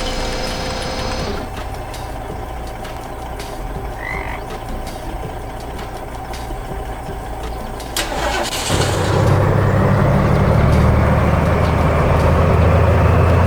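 Heavy vehicle engine sound effect: a low rumble for most of the clip, a sharp click about two-thirds in, then the engine starts and runs loud and steady.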